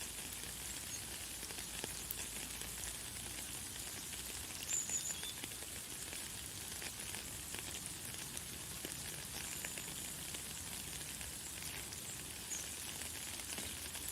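Light, fine rain falling steadily as a soft hiss of many small crackling drops. A brief, high bird chirp comes through about five seconds in.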